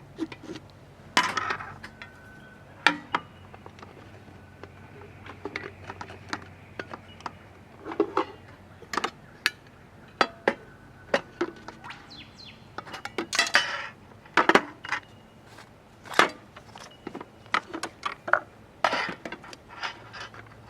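Camp cookware and utensils clinking and knocking in irregular sharp strikes, a few of them ringing briefly.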